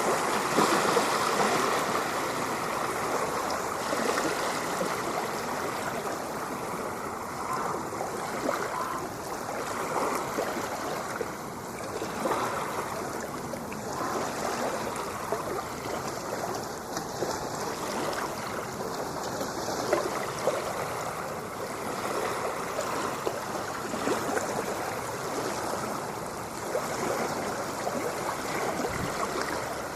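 Continuous rushing, splashing water, fairly steady, with small swells but no distinct breaking waves.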